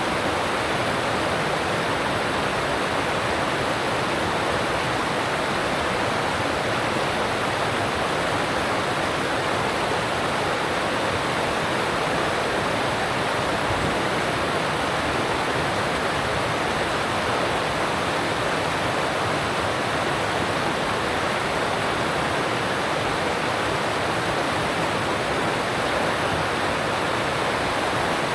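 Alpine stream rushing over rocks: a steady, even roar of water with no change in level.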